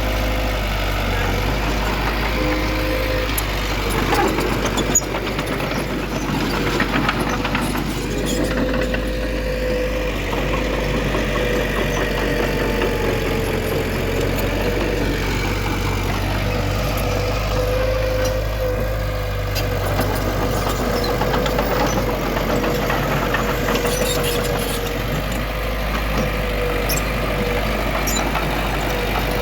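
Heavy diesel engines of a bulldozer and dump trucks running steadily under work, with a steady whine and a sharp knock about five seconds in.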